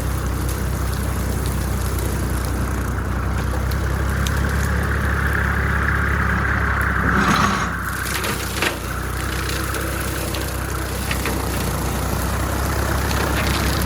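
Small tractor's engine running steadily. A higher whine-like noise swells in the middle and drops away, with a knock about seven and a half seconds in and another about a second later.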